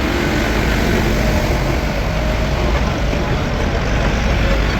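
Heavy machine's engine running steadily, a dense low rumble with no change in pace.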